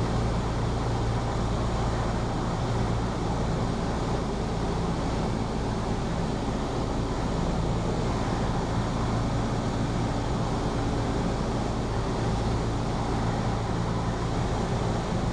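Cessna 172P's four-cylinder Lycoming engine and propeller running steadily at full takeoff power, heard from inside the cockpit as the plane takes off and climbs.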